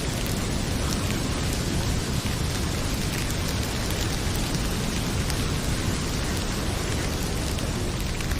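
Heavy rain pouring steadily, mixed with a fireplace fire crackling, with a few faint pops.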